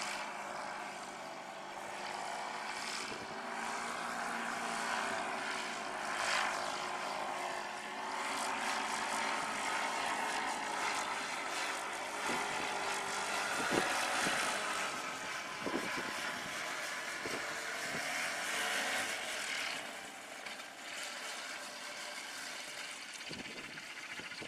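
Paramotor (powered paraglider) engine and propeller running at a steady pitch, dropping in level near the end.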